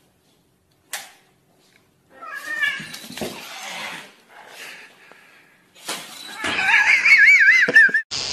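A cat yowling with a wavering, wobbling pitch, twice: a shorter call, then a longer and louder one near the end. A short click about a second in.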